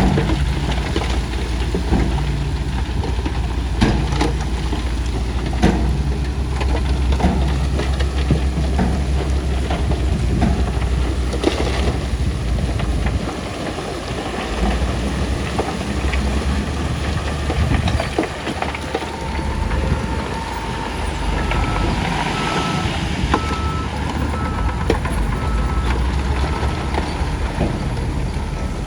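Heavy diesel earthmoving machinery, a bulldozer and dump trucks, running steadily with scattered clanks and knocks. From about two-thirds of the way in, a reversing alarm beeps at an even pace.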